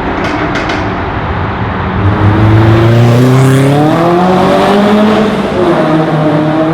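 Sports car engine accelerating hard with open exhaust, revs climbing steadily for a few seconds, then dropping back as it shifts up and pulls on. A few short exhaust cracks sound right at the start.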